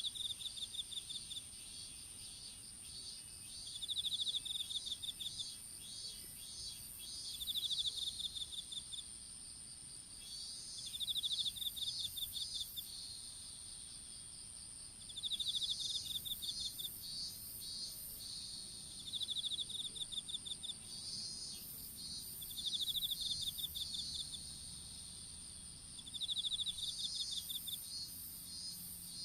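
Insects singing: a steady high-pitched trill underneath, with short pulsed chirp trains that come back every few seconds.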